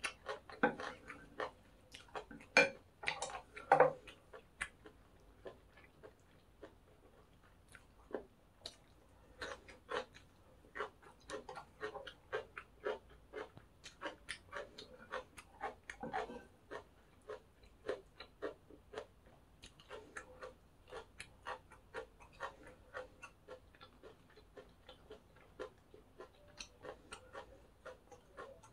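Close-miked chewing of crunchy pork cartilage fried rice: a steady run of crisp cartilage crunches, about two or three a second. A few louder clinks of a spoon on the plate come in the first few seconds.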